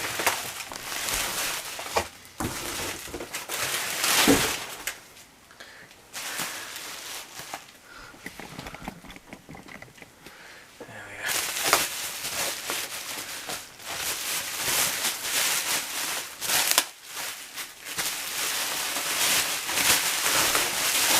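A parcel being torn open: packing tape ripping and cardboard and plastic packaging crinkling and rustling in bursts, with a quieter spell in the middle.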